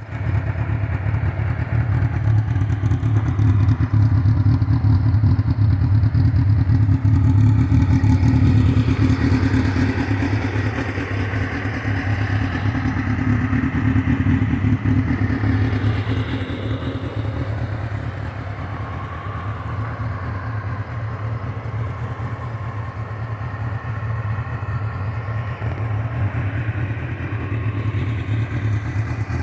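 The engine of a GSX-R 750-powered Yamaha Banshee running on its exhaust after tuning. It runs steadily and a little higher for the first half, then settles lower, toward an idle, after about seventeen seconds.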